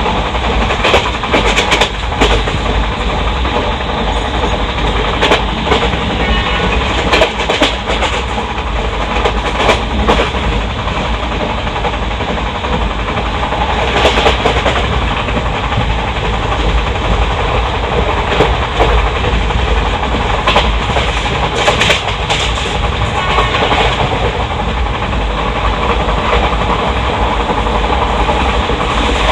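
Inside an ICF passenger coach at speed: the steady rumble of steel wheels on rail, with clusters of sharp clicks every few seconds as the bogies pass over rail joints.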